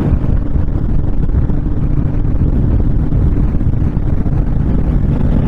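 Wind rushing over the microphone on a motorcycle without a windshield, over the steady run of a Honda VTX1300's V-twin engine cruising down the highway.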